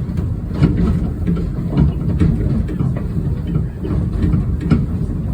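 Railway carriage running along the track: a steady low rumble with irregular clicks from the wheels.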